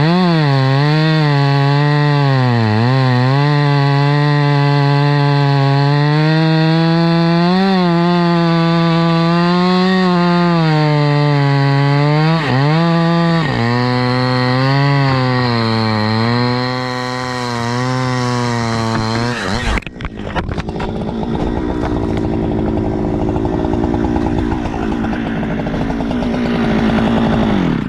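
Two-stroke chainsaw bucking a log, its engine pitch sagging and recovering over and over as the chain bites. About 20 seconds in, the sound turns rougher and noisier, and near the end it winds down.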